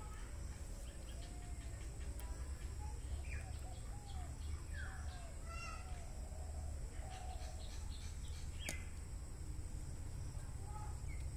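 Birds chirping: many short, arched calls and a few falling whistles, over a steady low rumble, with one sharp click about three-quarters of the way through.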